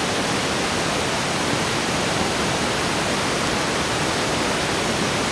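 Diesel passenger train running through deep drifted snow, flinging it aside: a steady, even rushing hiss.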